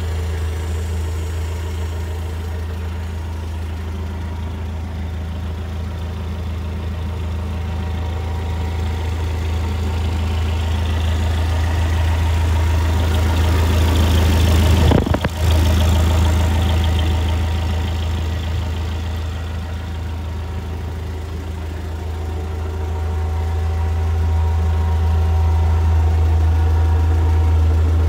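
Engine of an NVG Master FL25 truck idling steadily with a deep, even hum. It grows gradually louder and softer over time, and there is a brief break in the sound about halfway through.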